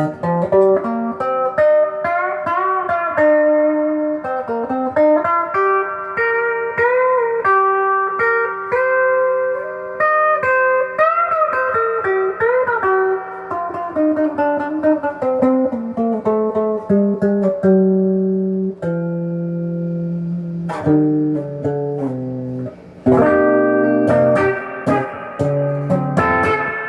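Donner DLP124 electric guitar played through an amp with light overdrive from a Sweet Cream pedal: single-note lead lines with string bends, with denser chord playing near the end.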